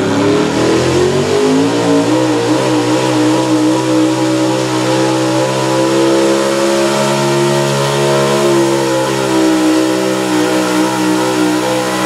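Pulling truck's engine under load as it drags the sled: revs climb over the first two seconds, then are held high and fairly steady, wavering slightly.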